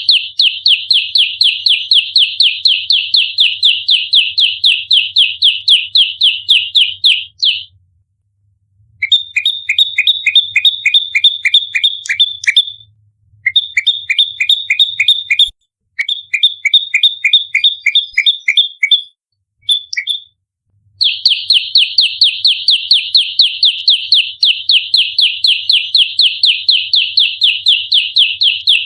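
Prenjak lumut songbird calling in its agitated 'fighting' mode: a fast, unbroken chatter of sharp, high notes. After about seven seconds it breaks into shorter bursts with brief pauses, then resumes the continuous chatter for the last eight seconds.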